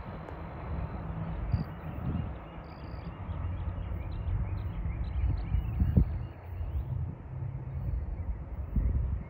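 Low rumble of a receding freight train of covered hopper cars rolling away down the track, uneven, with a few low thumps of wind on the microphone. Birds chirp faintly through it.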